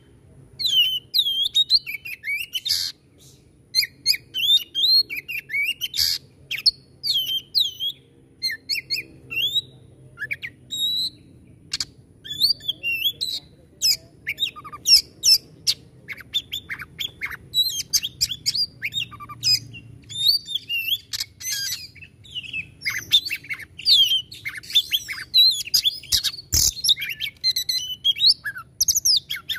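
Oriental magpie-robin (kacer) singing hard and without pause: a fast, varied stream of sharp chirps, whistled glides and harsh clicking notes, the rough 'shooting' (nembak kasar) song of a bird in full song.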